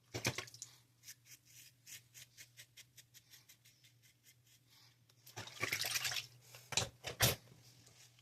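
Razor scraping through stubble in a quick series of short strokes during a wet shave, then a rush of water for about a second and two sharp knocks near the end.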